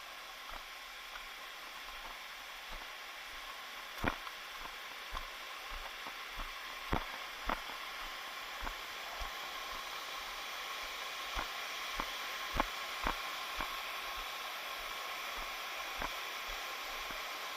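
Steady rushing of a waterfall stream, growing a little louder, with irregular soft knocks every second or so.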